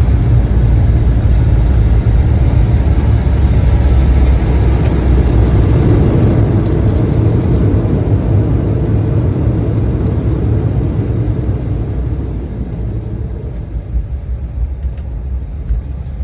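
Cabin noise of an Embraer ERJ-175 on its landing roll: heavy, steady rumble of the wheels on the runway mixed with its CF34 turbofan engines, easing off about two-thirds of the way through as the jet slows.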